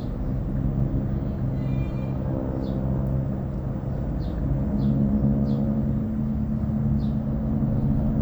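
Steady engine drone with a held low hum that swells slightly about halfway through, over a rough low rumble. Short high chirps sound every second or so above it.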